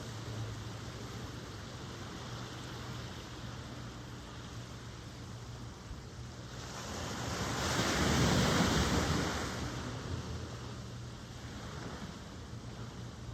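Ocean surf: a steady wash of waves, with one wave swelling louder, breaking and fading away about halfway through.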